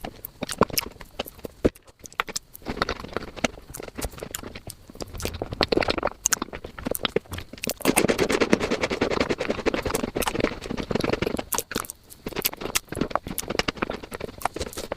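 Close-miked eating sounds sped up five times: rapid chewing, smacking and mouth clicks run together into a fast clatter. The clatter is fullest and busiest from about the middle of the stretch on.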